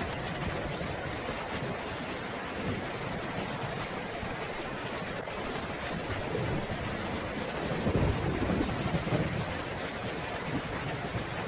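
Steady rain falling, with a low roll of thunder building about six seconds in, loudest a couple of seconds later, then fading.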